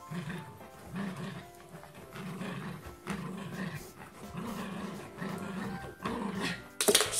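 A dog's repeated short, low grumbling whines, one every second or less, the excited vocalising of a dog greeting its returning owner, over background music. A loud noisy burst near the end.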